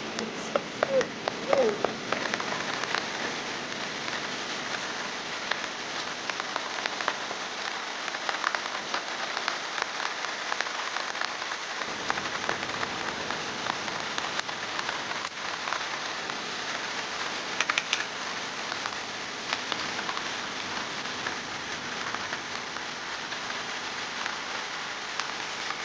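Steady rain falling, with scattered light clicks and taps through it.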